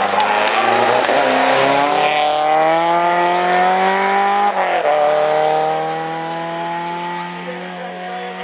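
A rally car's engine accelerating hard, its pitch climbing steadily, then a quick gear change about four and a half seconds in. After the change it pulls again and fades as the car moves away.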